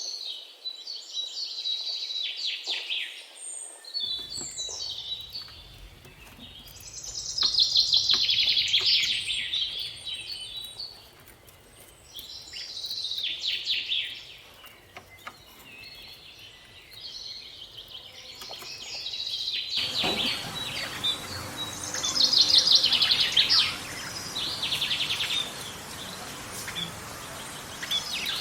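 Songbirds singing: loud, fast trilled phrases of a second or two, repeating every few seconds. About two-thirds of the way in a steady hiss joins them.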